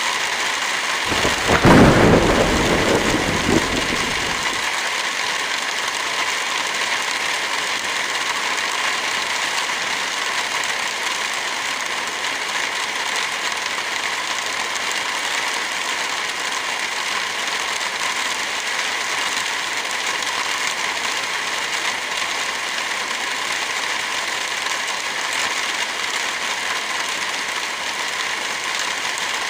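Steady rain falling. About a second in, a roll of thunder rises sharply and dies away over about three seconds.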